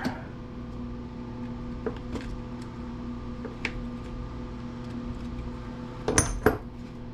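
Small metal tools clinking as they are picked up and handled, then two sharp metallic knocks close together near the end, typical of a metal punch being struck. A steady electrical hum runs underneath.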